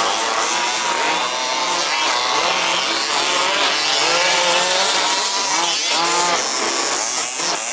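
Several 1/5-scale petrol RC buggies' small two-stroke engines running at race pace, overlapping and revving up and down, with pitch rising and falling as the buggies accelerate and pass; the sharpest sweeps come about six seconds in and near the end.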